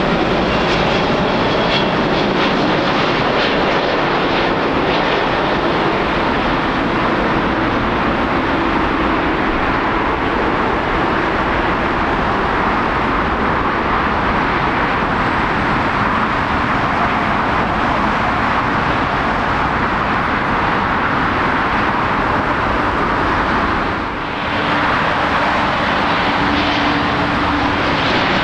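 Jet airliner engines, a loud, steady rush of noise with a faint whine in it. It dips briefly about three-quarters of the way through.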